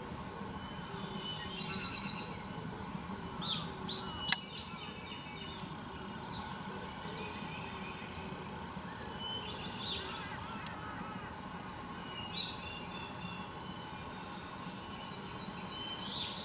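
Several wild birds singing and calling in short, repeated chirping phrases that overlap one another, over a steady low hum. There is a single sharp click about four seconds in.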